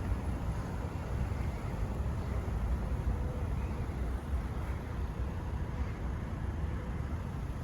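Outdoor city street ambience: a steady low rumble, most likely road traffic, with no distinct single events.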